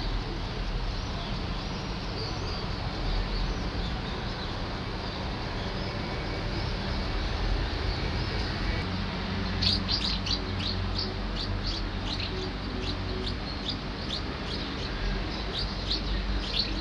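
Small birds chirping in quick, sharp, repeated calls that start about halfway through, over a steady low background noise.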